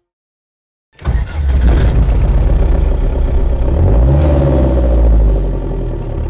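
Off-road 4x4 vehicle engine running under load with a heavy low rumble. It starts abruptly about a second in, and the revs rise briefly around the middle.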